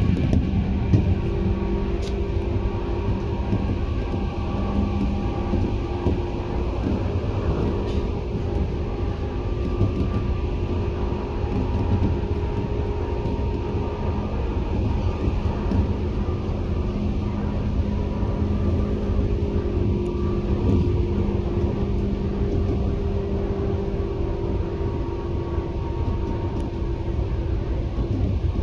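Running sound inside a Tobu 10030 series electric train at steady speed: a continuous rumble of wheels on rail, with the traction motors and gears humming in several steady tones.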